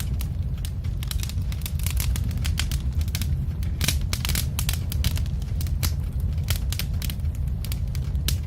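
Log fire crackling: irregular sharp pops and snaps over a steady low rumble of flames.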